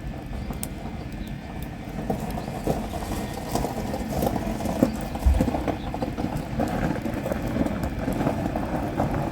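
Wood campfire burning, crackling with irregular pops and small knocks, over a steady low rumble; a louder knock about five seconds in.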